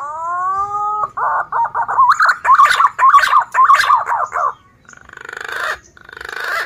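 Male punai daun (green pigeon) singing: a long whistled note rising in pitch, then a rapid, loud run of warbling whistles, followed near the end by two raspy, buzzing passages.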